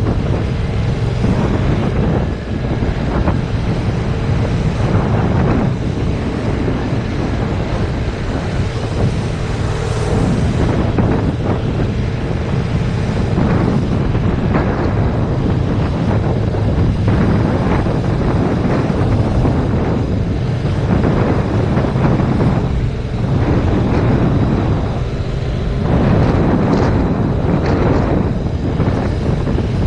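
Heavy wind buffeting on an action-camera microphone at riding speed on a 2019 Yamaha MT-07, with the bike's 689 cc parallel-twin engine running steadily underneath.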